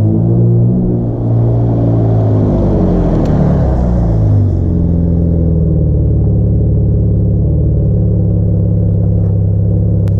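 2017 Jeep Cherokee Trailhawk's exhaust, muffler deleted with resonators still on: the engine revs up once and falls back, then idles steadily.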